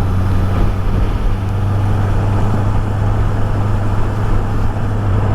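Honda CB650R's inline-four engine running at a steady pace, with road and wind noise, heard from inside the rider's helmet.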